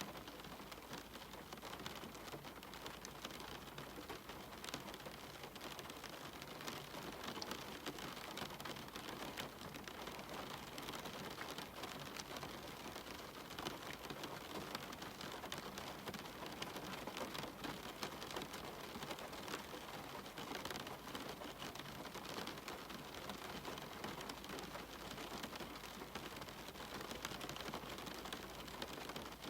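Steady rain falling, a dense, even hiss made up of many small drop impacts, with no thunder.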